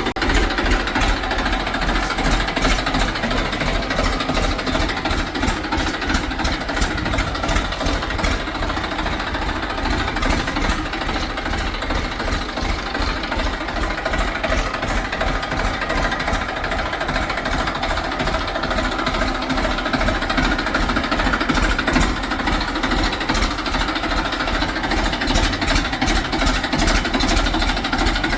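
Diesel engine of heavy machinery running steadily with a fast, even chugging pulse.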